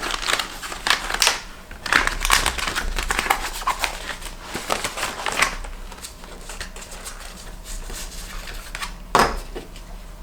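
Hard objects being handled at close range: a quick run of clicks, taps and rustling that thins out after about six seconds, with one louder knock about nine seconds in.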